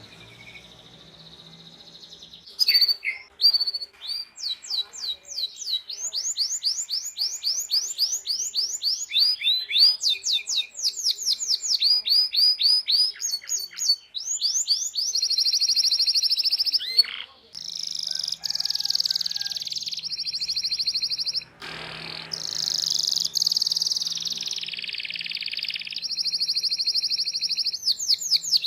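Domestic canary song. After a faint first couple of seconds come fast runs of the same high, sweeping chirp repeated many times a second (the 'cuit cuit'), then long buzzing rolls held for several seconds each.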